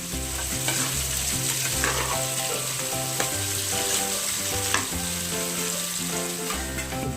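Mutton curry frying and sizzling in an open pressure cooker as the masala and coconut paste cook. Background music with steady bass notes plays underneath.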